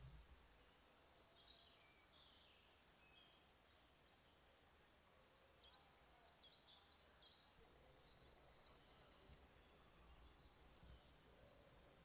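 Near silence with faint distant birdsong: scattered high chirps, with a quick run of short chirps about halfway through.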